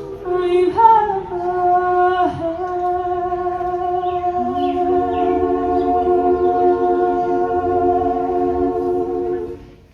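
A group of singers in close harmony closing a folk ballad: a few moving notes, a lower voice coming in about four seconds in, then a long held final chord that fades out just before the end.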